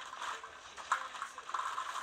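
Typhoon wind and rain, a rushing hiss that rises and falls, with one sharp knock about a second in.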